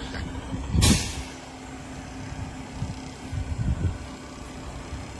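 Garbage truck running with a low rumble, and a short, loud hiss of air about a second in, like an air brake being released.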